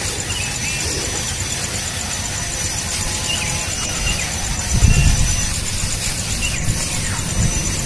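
Steady low rumbling noise, louder for a moment about five seconds in, with a few faint short bird chirps and a high, evenly pulsing buzz under it.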